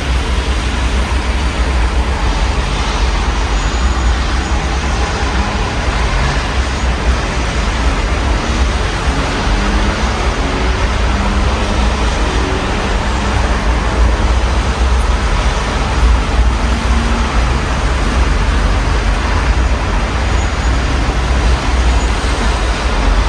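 Steady rain heard through an open window, an even hiss, over a deep rumble of city traffic.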